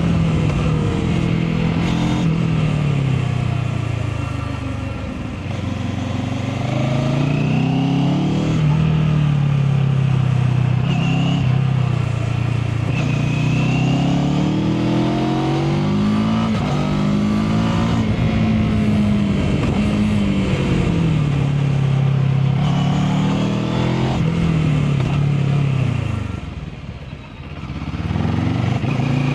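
Mash FR 750 motorcycle engine heard from the rider's seat while riding, its pitch rising and falling again and again as the throttle opens and closes. It drops away sharply near the end, then picks up again.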